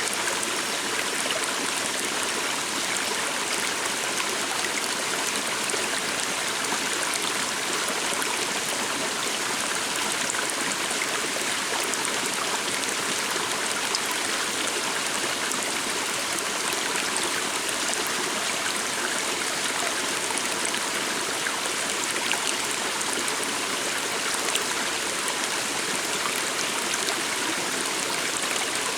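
A small stream running steadily, its water flowing with an even, unbroken rush.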